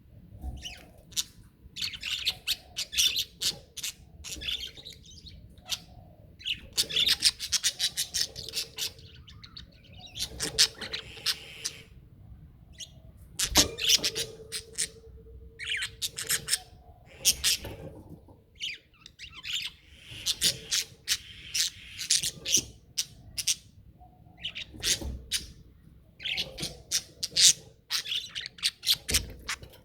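Budgies chattering: rapid high chirps, clicks and warbles in bursts of a second or few, broken by short pauses. A single sharp tap about halfway through.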